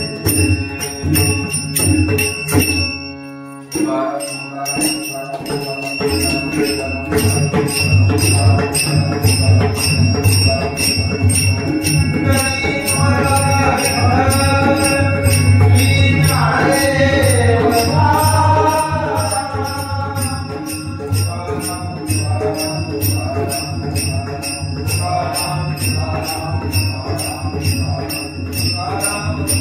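Warkari bhajan: small hand cymbals (taal) clash in a fast, steady beat over a low pulsing accompaniment, with a brief break about three seconds in. A male lead singer's voice rises and falls over it from a little under halfway through.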